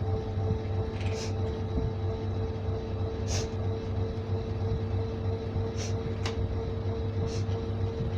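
Washing machine running: a steady motor hum with a constant tone over it, and a few short hissing swishes now and then.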